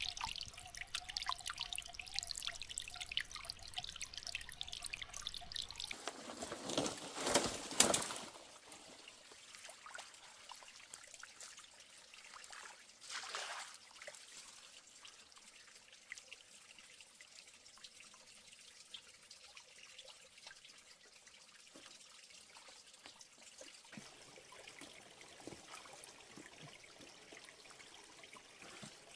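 Water trickling and splashing, with louder splashing about six to eight seconds in and a short splash near the middle, then quieter trickling.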